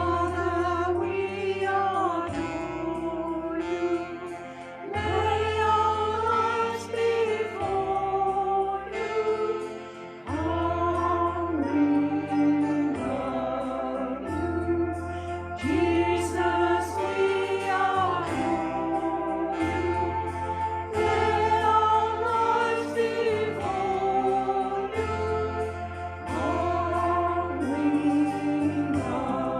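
A small church singing group singing a hymn in parts, with sustained instrumental accompaniment underneath.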